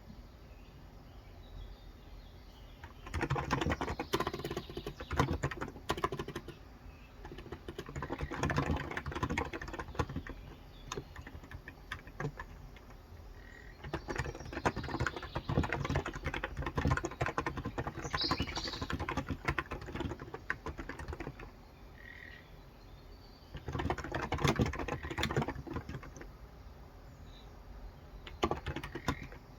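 Typing on a Cox Endeavor capacitive (contactless) keyboard with 35 g switches, in several quick runs of keystrokes separated by short pauses.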